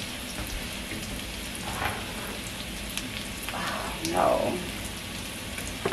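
Onion strips sautéing in a frying pan, a steady sizzle. A few brief louder noises break in, the loudest about four seconds in.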